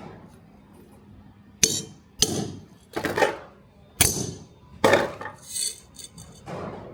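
Metal objects clinking and knocking against one another or a hard surface: a series of irregular sharp clanks, each with a brief ring.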